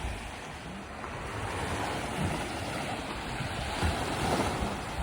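Steady rush of wind and lake water, with gusts buffeting the microphone in low, uneven thumps.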